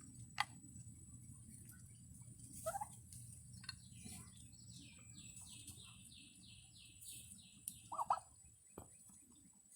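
Turkeys giving a few short, scattered calls, the loudest pair about eight seconds in, over a faint steady background rumble. In the middle there is a run of about ten quick, high, rising notes.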